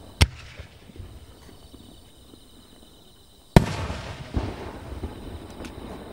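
Japanese aerial firework shells going off: a sharp bang just after the start, then about three seconds later a louder burst that rolls on in a long echo, followed by a few smaller pops.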